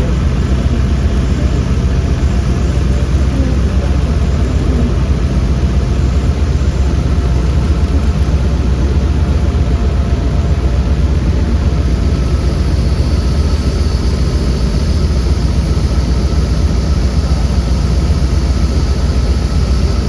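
Heavy diesel engine of construction machinery running steadily, low and deep, with a faint high whine joining in a little past halfway.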